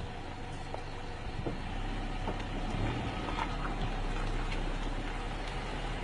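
Steady low hum of a vehicle engine idling, with a few faint clicks over it.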